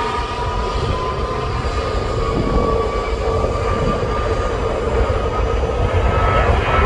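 Jet airliner engines running, a steady rumble with a few whining tones that creep slightly up in pitch as the sound slowly grows louder.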